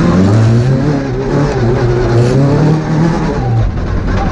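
Two-wheel-drive rally car's engine heard from inside the cabin, driven hard with the revs climbing and dropping back again and again.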